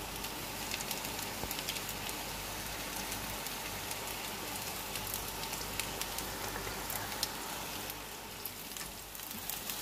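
Aloo tikki (potato patties) shallow-frying in ghee over a low flame: a steady sizzle with many small crackles and pops.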